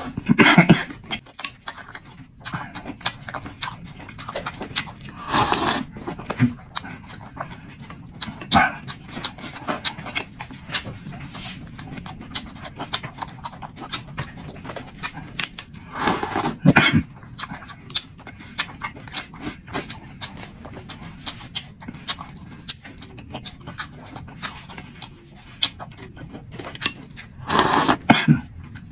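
Close-miked eating: a person chewing, with many small wet clicks of the mouth and food, and a few louder, longer mouth noises about half a second in, around a third of the way through, just past halfway and near the end.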